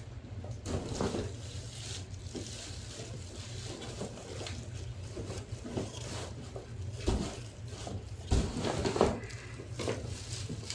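Cardboard packaging and plastic vacuum-cleaner parts being handled: irregular rustling and small knocks, with two heavier thumps about seven and eight and a half seconds in.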